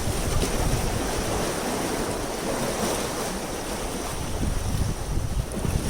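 Wind buffeting the microphone in uneven gusts over a steady wash of sea water.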